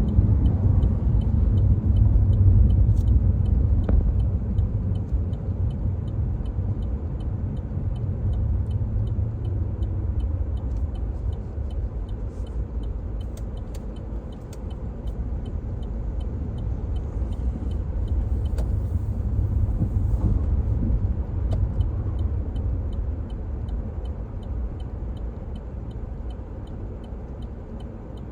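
A car driving, with a steady low rumble of engine and road noise that eases gradually toward the end.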